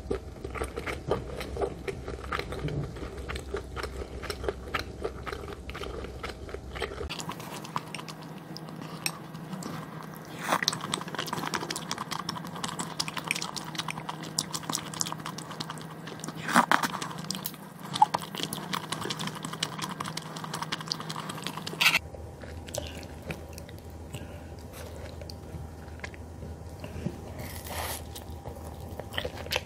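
Close-miked eating: chewing and biting with crunchy, wet mouth sounds as tteokbokki rice cakes and crisp fried snacks (twigim) are eaten. The steady background hum changes abruptly twice, at about 7 s and again at about 22 s.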